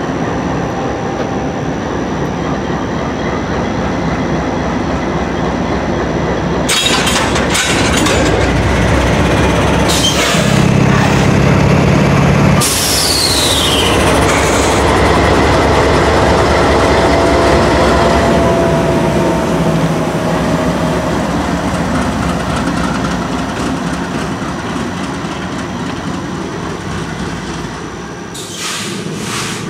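Steady rumble and wheel noise of a freight train. Several sharp knocks come between about 7 and 13 seconds in, followed by a brief falling squeal.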